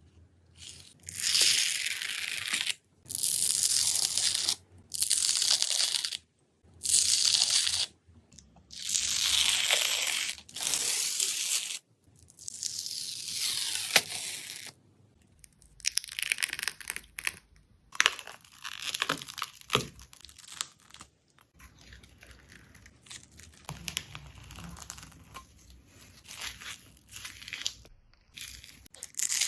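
A thin peelable 'skin' film being torn in repeated hissing pulls, each lasting one to three seconds. About halfway through, these give way to quieter crinkling and crackling with scattered sharp clicks.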